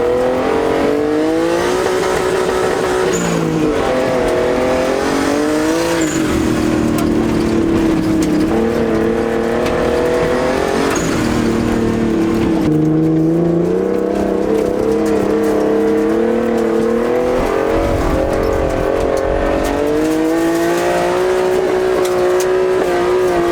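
Turbocharged RB20DET straight-six in a Nissan 240SX under hard acceleration on dirt, its revs climbing and dropping back several times.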